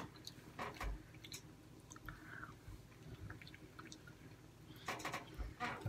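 Faint chewing of fried fast food such as chicken nuggets and fries, with scattered small clicks and taps from hands handling the food and ketchup cup, busier near the end.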